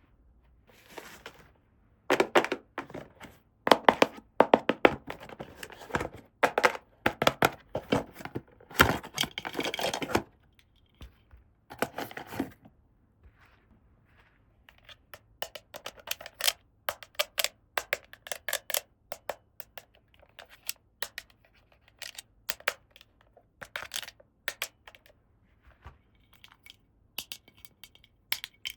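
Small plastic toy parts and packaging being handled: a long run of sharp clicks and taps, with stretches of rustling and tearing, the busiest in the first ten seconds.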